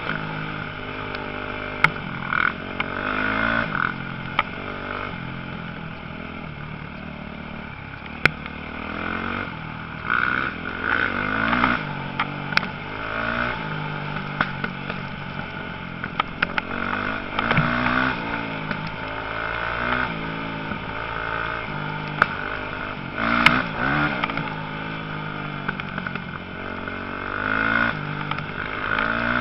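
Motocross bike engines revving, their pitch rising and falling again and again as the bikes accelerate and shift, with occasional sharp clicks.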